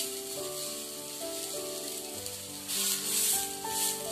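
Background instrumental music of held melodic notes over the sizzle of a mini uttapam frying on a flat tava; the hiss swells and pulses from about two and a half seconds in.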